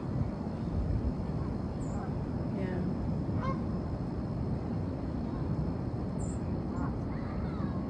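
A few short bird calls scattered over a steady low outdoor rumble.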